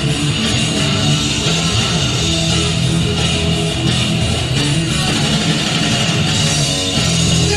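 Heavy metal band playing live, with distorted electric guitar to the fore over the band.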